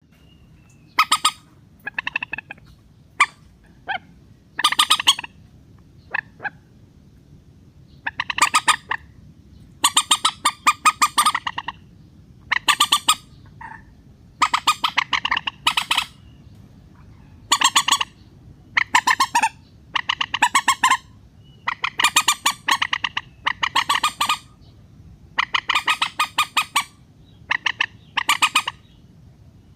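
Mandar (rail) calls played as a bird-trapping lure recording: short bursts of rapid, harsh clicking notes, repeated every one to two seconds with brief pauses between.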